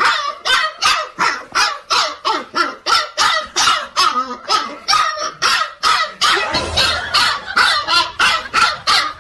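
A dog barking over and over in a steady, even rhythm, about three barks a second, without a break.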